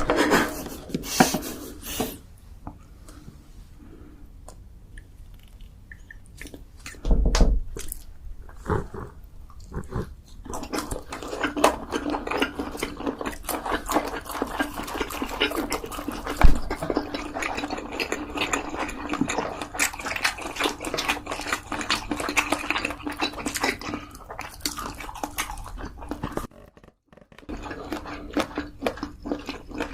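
Close-miked eating sounds: wet chewing and mouth smacking over spicy fried chicken and instant noodles, with a few louder bites and slurps, and steady dense chewing through the middle of the stretch.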